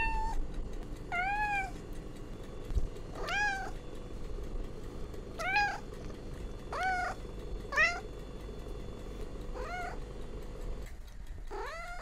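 Domestic cat meowing repeatedly: about eight short meows spaced a second or two apart, each rising and then falling in pitch, over a steady low background hum.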